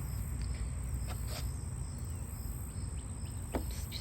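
Outdoor ambience: a steady low rumble under a continuous high-pitched insect chorus, with a few faint clicks.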